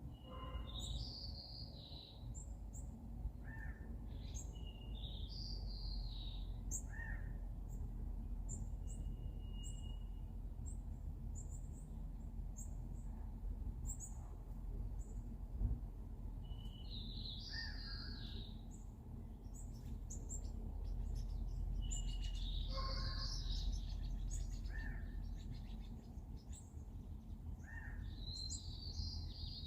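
Songbirds singing and calling: a repeated rising-and-falling phrase comes back several times, with scattered short high chirps between. A steady low rumble runs underneath.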